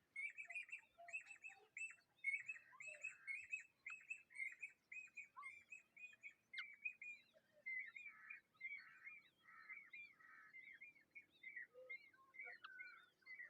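Bird chirping: a continuous run of short, down-slurred chirps, about four a second, with a few fainter lower calls mixed in.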